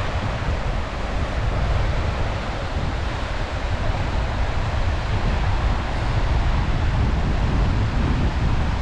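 Sea waves washing onto the beach in a steady hiss, with wind buffeting the microphone in a constant low rumble.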